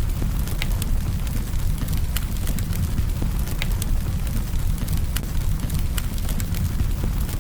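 Campfire crackling: sharp pops and snaps of burning wood several times a second over a steady low rumble.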